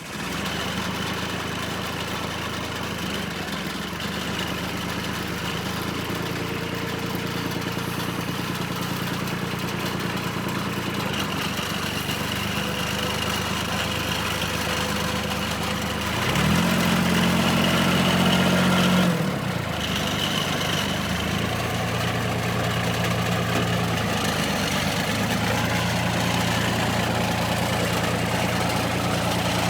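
John Deere 4100 compact tractor's three-cylinder diesel engine idling steadily. About halfway through it briefly revs up for two or three seconds, then settles back to idle.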